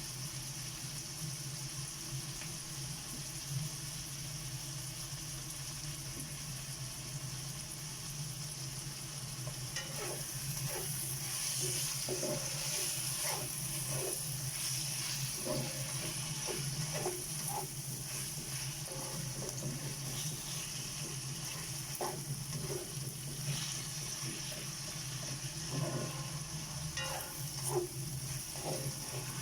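Chunks of beef frying in a pan with sautéed garlic, onion and tomato, a steady sizzle that grows louder about ten seconds in. From then on a spoon stirring knocks and scrapes against the pan now and then, over a low steady hum.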